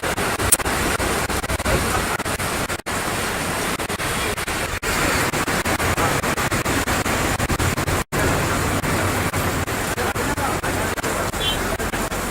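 Steady hiss of outdoor street ambience, broken by brief dropouts about 3 and 8 seconds in.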